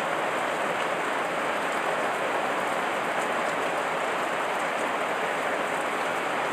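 Heavy rain falling steadily, an even hiss of many drops with faint scattered pattering.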